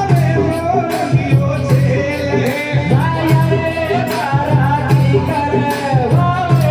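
Live Indian folk devotional music: a held, bending melody over a regular low drum beat, with jingling hand percussion.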